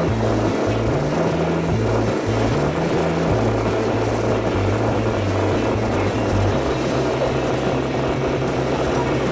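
Electric Special Rapid commuter train running at speed: a steady rumble of wheels and running gear, heard from inside the front car just behind the driver's cab.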